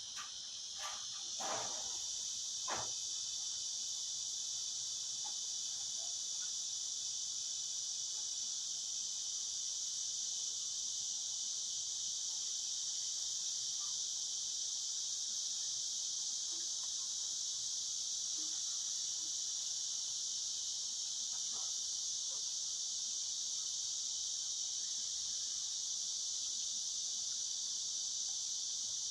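Cicadas buzzing in a continuous high-pitched drone that swells over the first couple of seconds and then holds steady. A few faint ticks come near the start.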